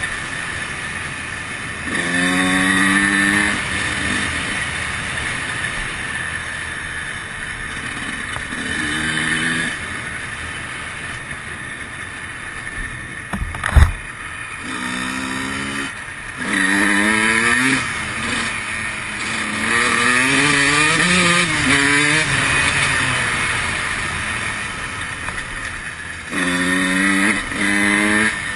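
Honda CR125 125cc single-cylinder two-stroke dirt bike engine revving in repeated bursts, its pitch climbing and dropping back between them. One sharp knock about halfway through.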